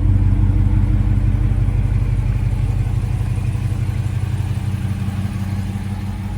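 Dodge Challenger's engine running steadily at idle, easing down slightly in level.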